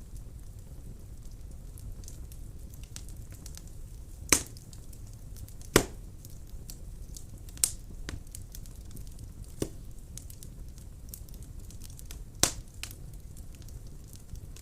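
Wood fire burning in a fireplace: a low steady rumble of flames with constant small crackles and five sharp, louder pops from the burning logs.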